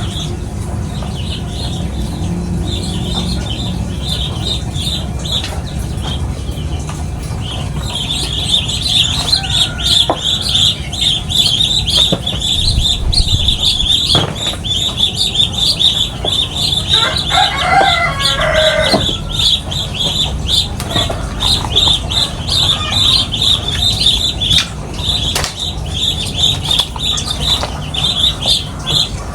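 A flock of small birds (burung pipit) twittering. The rapid, high chirps thicken into a dense, continuous chatter about a quarter of the way in. A brief lower-pitched call sounds about midway, over a steady low rumble.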